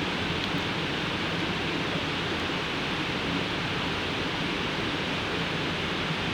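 Campfire burning: a steady rushing hiss, with a faint crackle about half a second in.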